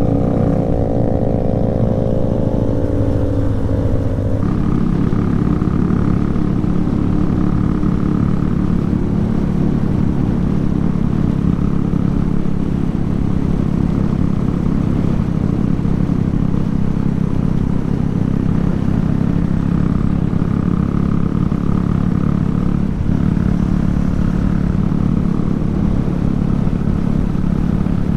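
Motorcycle engine running steadily on the move. A second, higher engine tone is heard for the first four seconds and stops abruptly.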